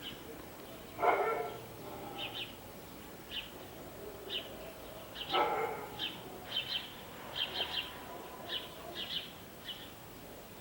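A dog barks twice, once about a second in and again about five seconds in, while small birds chirp repeatedly with short high notes.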